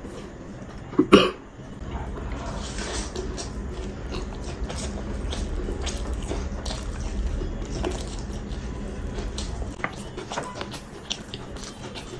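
Close-miked mukbang eating sounds: chewing mouthfuls of chicken biryani, with wet smacking and many small mouth clicks. One short, loud burst about a second in.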